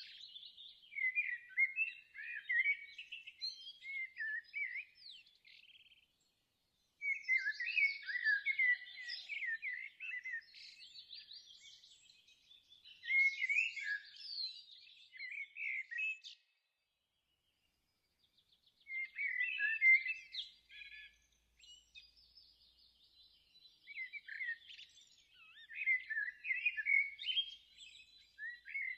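Songbirds singing: quick, chirping, warbling phrases in runs of several seconds, broken twice by a short gap of silence, about six seconds in and about seventeen seconds in.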